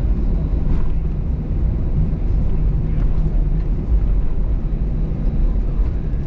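Steady low rumble inside the cabin of an Airbus A320-214 during taxi, its CFM56 engines running at low power.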